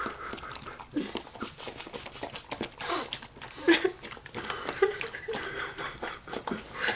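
Tamaskan dog whelping her third puppy: a string of short, irregular wet clicks and smacks, with a couple of brief whimpers about four and five seconds in.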